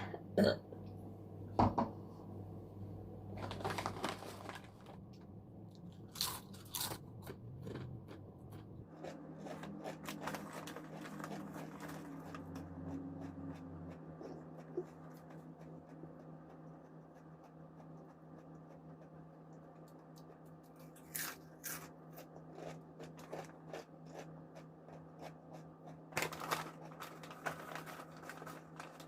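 Crisp spicy balado-seasoned snack chips being bitten and chewed close to the microphone, in repeated sharp crunches with quieter chewing between, over a faint steady hum.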